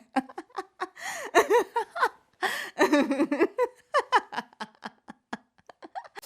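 Human laughter in quick, repeated bursts, loud for the first four seconds, then thinning to short, quieter gasps and chuckles near the end.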